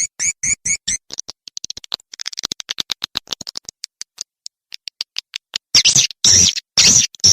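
Swiftlet calls: a quick series of short rising chirps, about seven a second, then a run of rapid clicks that speeds up into a dense twitter. About six seconds in, loud harsh screeches take over.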